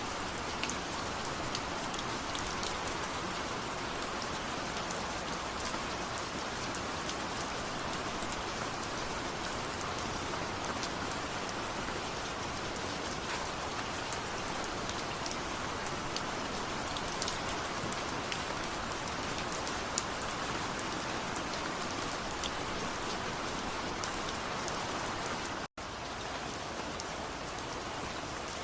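Steady rainfall, an even hiss with many small drop ticks scattered through it. The sound cuts out for an instant near the end.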